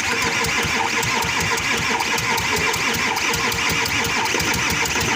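Audi Q7 diesel engine turning over on the starter with a fast, even rhythm, cranking without firing. The mechanic hears the cranking as skipping and lacking compression, and suspects a timing fault after the timing chain replacement.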